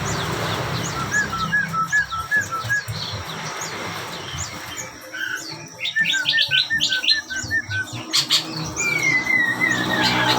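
Caged mantenan songbird singing in rapid phrases of short, clipped chirping notes, repeated several times, with higher notes over them and a falling trill near the end.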